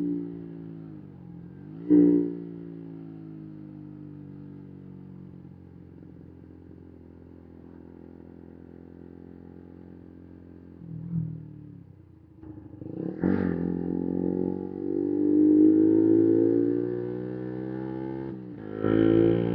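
125 cc single-cylinder four-stroke motorcycle engine blipped once sharply, idling steadily, then revved up and held at higher revs for several seconds before dropping and rising again near the end.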